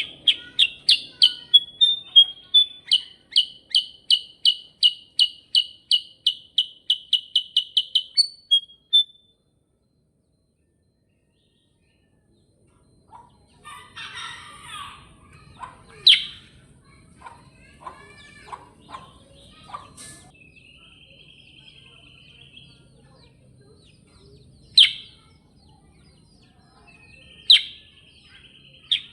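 Kutilang sutra singing its rolling 'ngerol' song: a long run of clear, sharp whistled notes, about three a second, kept up for some eight seconds. After a few seconds of complete silence come scattered chirps, single sharp calls and short buzzy trills.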